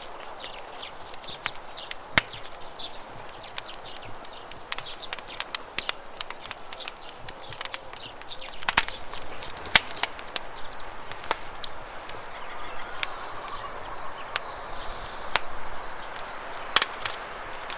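Wood campfire crackling, with sharp irregular pops and snaps over the steady rush of flowing river water.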